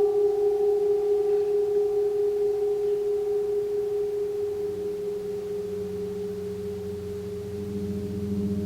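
Gong ringing: a long, pure tone fades slowly, while a deeper, pulsing hum builds up from about halfway through as the gong is played softly again.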